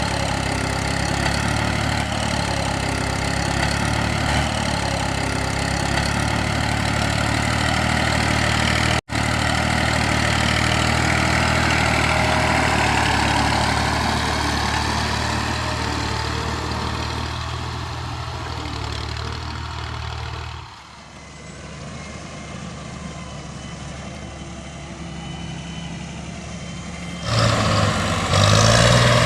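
Tractor engine running steadily with a low, even hum. It briefly cuts out about nine seconds in, drops quieter about two-thirds of the way through, and comes back louder near the end.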